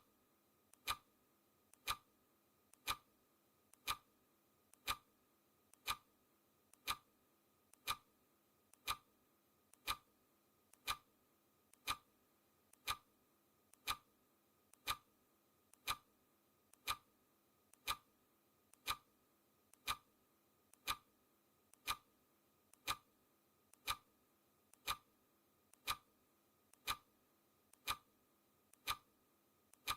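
Countdown timer's clock-ticking sound effect: a steady, even tick about once a second, each loud tick paired with a fainter click.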